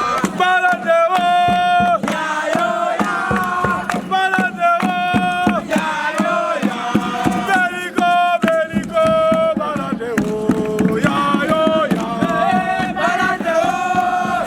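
A group of voices chanting a song together in unison, with a rapid percussive beat.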